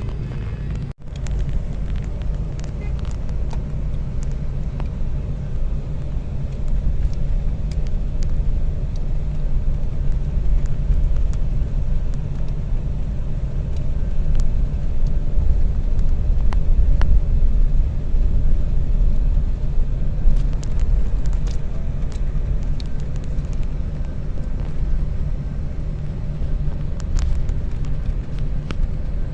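Car driving along a road: a steady low rumble of engine and tyres, with a brief break in the sound about a second in.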